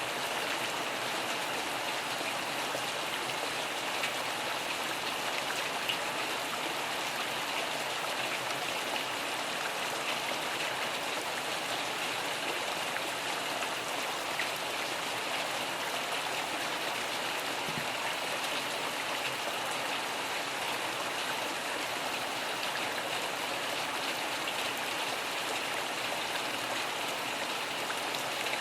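Steady rain: an even hiss of falling drops with a few faint drop ticks here and there.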